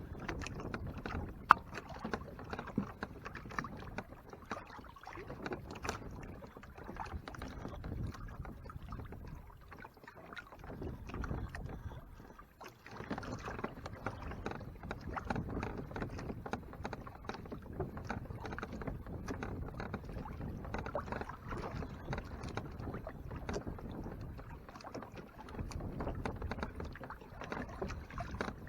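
Water sloshing and lapping against the hull of a Hobie Mirage Tandem Island sailing kayak under way, rising and falling unevenly. There is a single sharp knock about a second and a half in.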